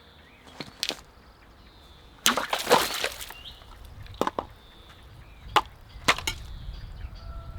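Wood being chopped and split: a few sharp knocks, and a loud crackle of splintering about two seconds in that lasts about a second.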